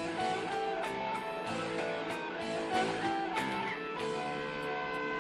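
Instrumental guitar music: plucked and strummed guitar notes ringing in a steady passage with no voice.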